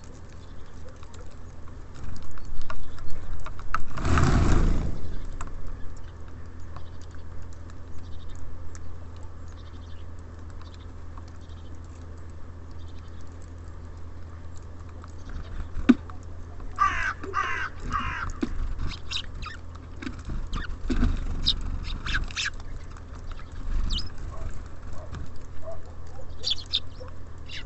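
Small birds at a feeder, with a series of calls clustered from about two-thirds of the way in and scattered shorter calls afterwards, over a steady low hum of distant traffic. A loud rush of noise lasting about a second comes about four seconds in.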